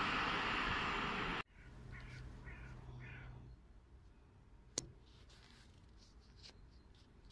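Container freight train running past on the station track, a loud steady rush of wheel and rail noise that cuts off abruptly about a second and a half in. After it a bird calls three times, about half a second apart, over a low hum. A single sharp click comes near the five-second mark.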